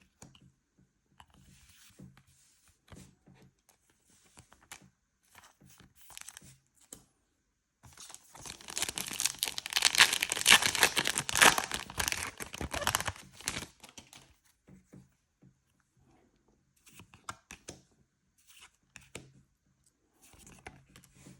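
Foil trading-card booster pack being torn open and its wrapper crinkled, loudest for several seconds in the middle, with light rustling and clicking of cards being handled before and after.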